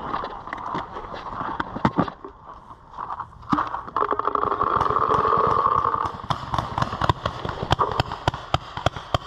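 Paintball markers firing: sharp pops come in quick volleys of several a second, growing denser through the second half. A steadier, louder sound lasts about two seconds in the middle.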